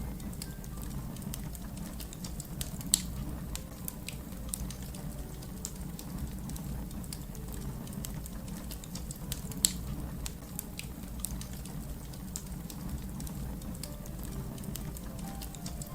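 Wood fire crackling: a steady low rumble of burning with frequent small sharp pops, and two louder snaps about three seconds and nearly ten seconds in.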